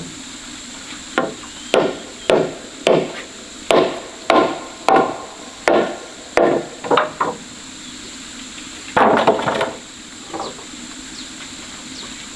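Hammer blows on timber, about a dozen strikes at roughly two a second, then a pause and a longer, louder clatter about nine seconds in, as wooden floor supports are knocked loose.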